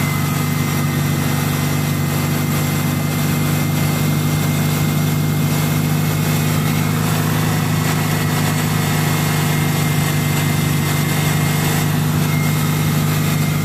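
Toyota Corolla XRS's 2ZZ-GE 1.8-litre four-cylinder engine idling steadily as it warms up, heard close from the engine bay, with a faint steady high whine over the hum.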